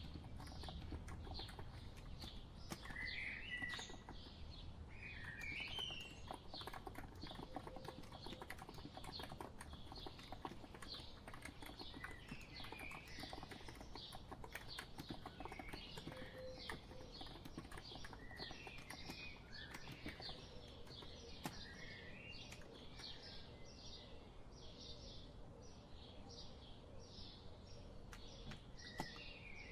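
Steady typing on a COX Empress electro-capacitive keyboard, a continuous run of quiet keystroke clicks, with birds chirping repeatedly alongside.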